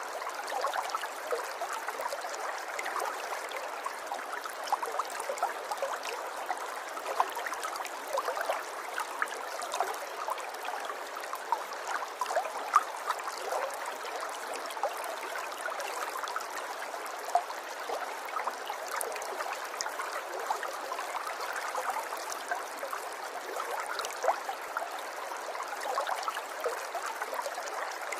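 River water flowing and trickling in a steady, light babble, with many small splashes and gurgles.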